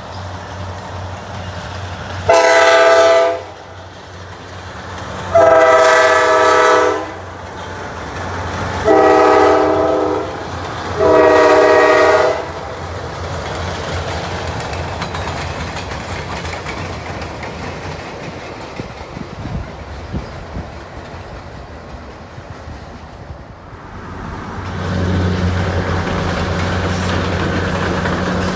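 Locomotive horn on an excursion train sounding four blasts in a row, a shorter one followed by three longer ones, each a steady multi-note chord. Between and after the blasts the train rumbles along the rails, and near the end a louder low engine drone sets in as the locomotive comes closer.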